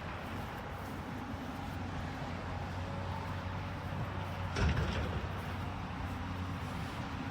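Heavy demolition machine's engine running steadily, with one loud bang about four and a half seconds in.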